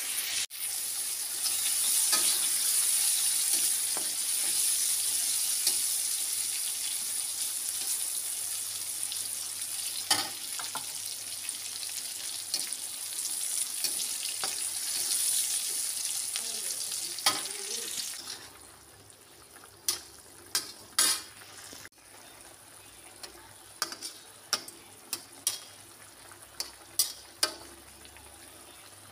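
Spice paste sizzling in hot oil in a wok, with a steady high hiss and a spatula scraping and stirring it now and then. About eighteen seconds in the sizzle drops away, leaving a quieter scattering of sharp ticks.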